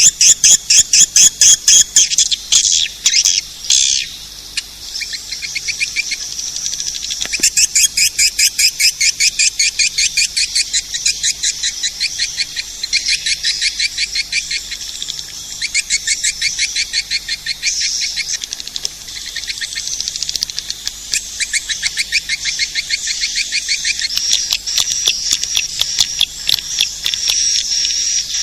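Swiftlet caller recording: swiftlet calls in fast, high-pitched twittering chirp trains, played as a lure to draw swiftlets to a nesting house. Several trains overlap, with short pauses between runs.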